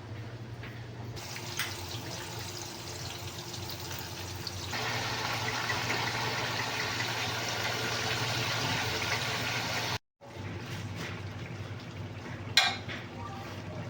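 Water running and splashing, louder from about five seconds in, with a steady low hum underneath. The sound breaks off abruptly about ten seconds in, resumes, and a single sharp knock sounds near the end.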